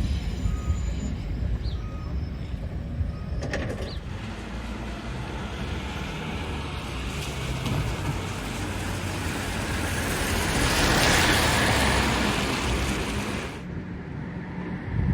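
Vehicle noise: a steady low rumble with a rushing sound that swells to a peak about two-thirds of the way through, then drops away sharply near the end.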